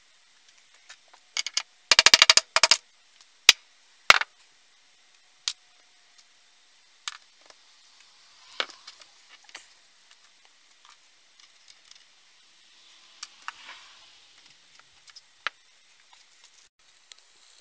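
Workshop handling noises: sharp metallic clicks and knocks of tools and parts, with a quick run of about a dozen loud clacks about two seconds in, then single knocks every second or two.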